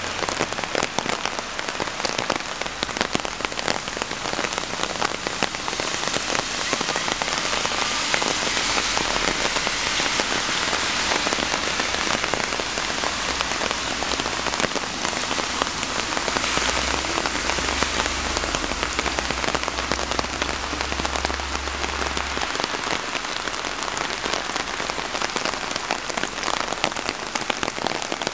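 Nachi Falls, a tall waterfall, pouring: a steady, dense rush of falling water and spray, with a deeper low rumble under it for much of the time.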